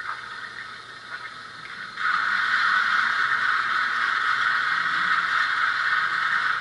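Steam hiss from a Stanier 8F steam-locomotive sound decoder playing through a model locomotive's small speaker. A softer hiss turns abruptly into a loud, steady hiss about two seconds in, like steam being let off.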